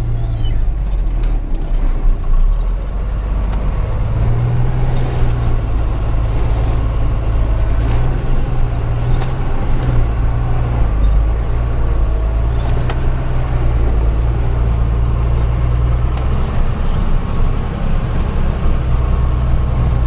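Truck engine running steadily, with a few sharp knocks and rattles here and there.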